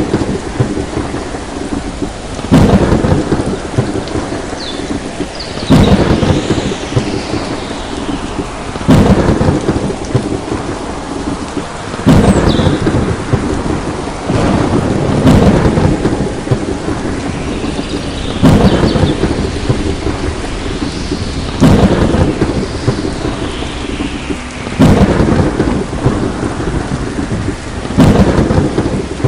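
A thunderstorm: steady heavy rain, with a loud thunderclap about every three seconds, each trailing off in a rolling rumble.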